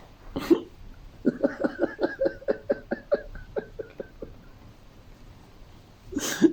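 A man laughing in quick, rhythmic pulses for about three seconds, fading out, with a sharp breath near the start and another loud breath near the end.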